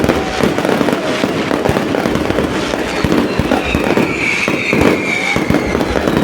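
Fireworks going off continuously: a dense, irregular run of bangs and crackling pops, with a whistle-like tone a little past the middle.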